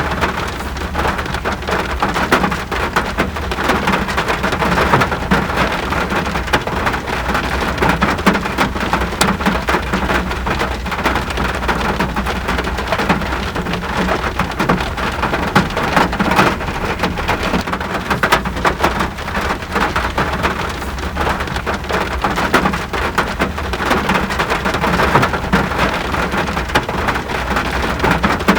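Steady rain falling, a dense patter of many small drop hits without a pause.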